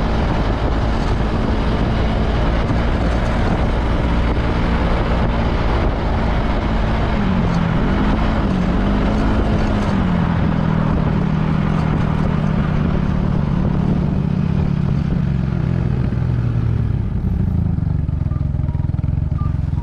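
Yamaha Majesty S scooter's single-cylinder engine running on the road under heavy wind noise. The engine note dips and recovers about eight seconds in, then falls steadily over the second half as the scooter slows.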